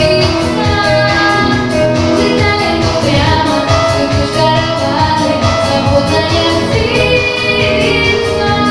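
A young girl singing a pop song with held, gliding notes over an accompaniment with a steady beat.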